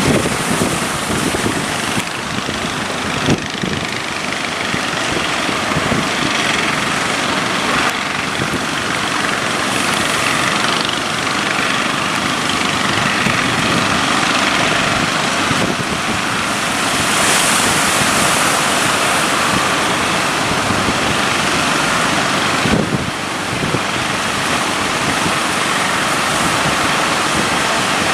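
Boat engines running as the boats push through breaking surf, with the roar of waves and heavy wind noise on the microphone.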